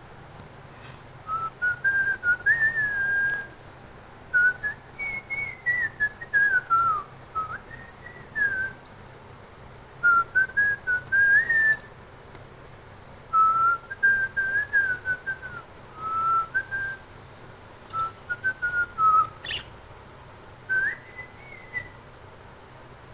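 A pet bird whistling runs of clear, sliding notes in short phrases, in bursts separated by pauses of a second or two. A sharp click sounds about nineteen seconds in.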